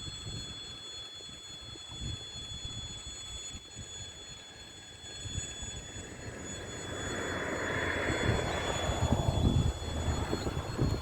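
Train approaching, its rumble and wheel noise building from about halfway in and loudest near the end.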